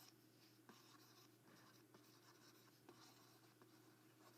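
Near silence with faint pen scratching: a few short strokes and light ticks of a pen on a writing surface, over a steady low hum.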